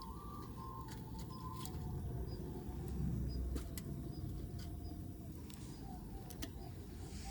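Outdoor ambience: a steady low rumble with scattered faint sharp clicks and soft bird calls, including short repeated notes near the end.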